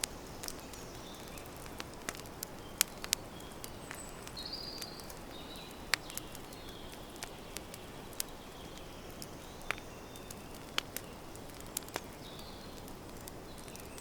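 Campfire crackling: irregular sharp pops and snaps over a steady hiss. Birds give short high chirps now and then.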